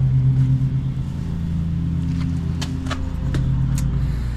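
Steady low mechanical hum, like a running engine or motor, with a few faint clicks in the second half.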